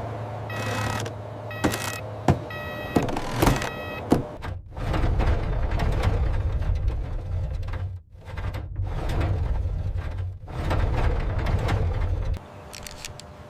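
Heavy vehicle engine running with a reversing alarm beeping about once a second for the first few seconds, broken by a few sharp clicks. The engine then runs louder and stops abruptly about twelve seconds in.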